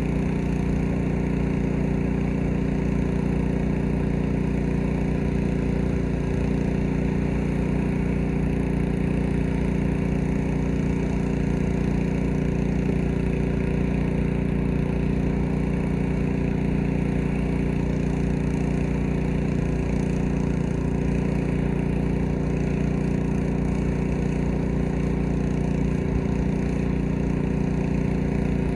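Gasoline pressure washer engine running at a steady speed, with the hiss of the spray over it.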